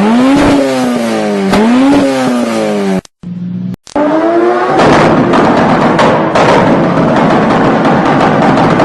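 Car engine revved through its exhaust, rising and falling in pitch about twice. About three seconds in the sound cuts out briefly, then returns as a denser, louder run with sharp strokes.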